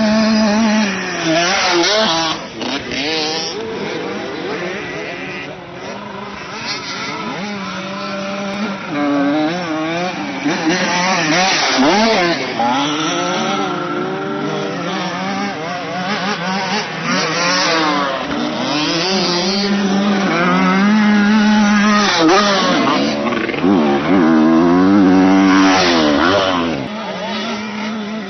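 Several motocross bikes' engines revving up and down together, the pitch rising and falling as the riders go through the track, loudest a little past two-thirds of the way in.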